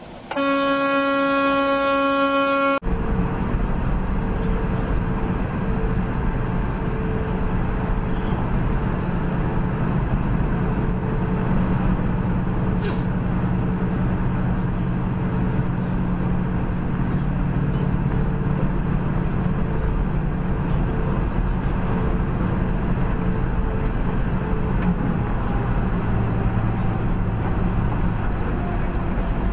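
A single steady vehicle horn blast of about two seconds that cuts off abruptly, then steady driving noise of a vehicle on the road, engine hum and tyre noise, unchanging to the end.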